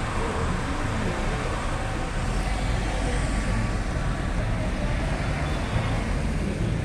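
Steady traffic noise of a car procession: engines running and tyres on the road, a low, even rumble.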